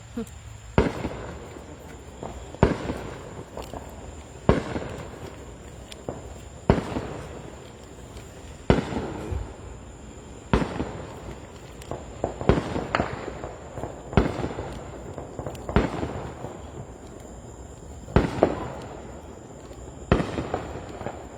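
Fireworks going off in a steady series: a sharp bang about every two seconds, each trailing off in a crackle, a dozen or so in all.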